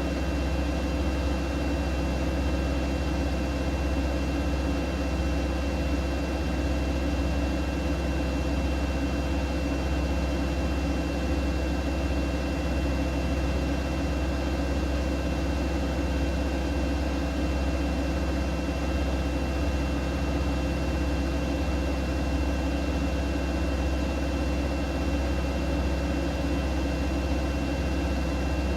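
Siemens Siwamat IQ 716 washing machine running steadily: a constant low hum with a thin, even high whine, unchanging throughout.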